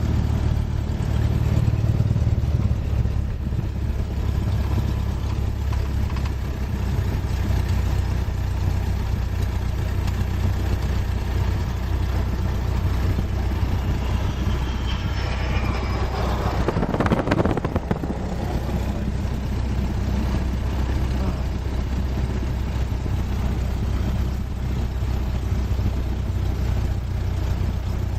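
The Cessna 172S's four-cylinder Lycoming IO-360 piston engine runs with a steady low drone. A short rush of noise comes a little past halfway.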